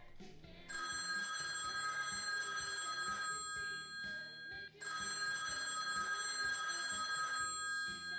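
Telephone ringing: two long rings, each about two and a half seconds, with a short pause between them, over background music.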